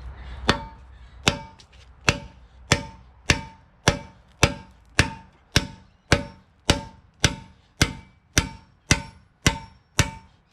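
Hammer blows on a steel attachment pin, struck steadily about twice a second, each blow with a short metallic ring.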